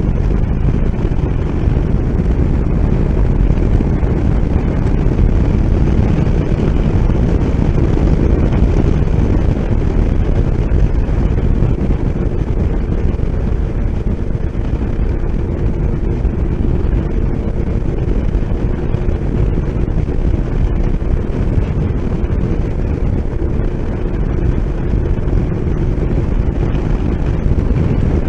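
Motorcycle engine running steadily at road speed, mixed with heavy wind rush on the rider's microphone.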